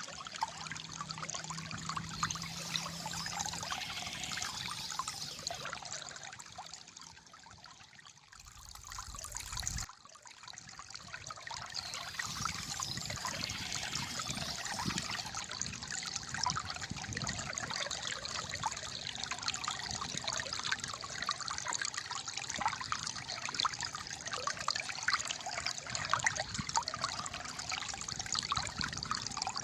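Calm flowing water gurgling and trickling steadily. It dips quieter for a couple of seconds about a quarter of the way in, then comes back abruptly.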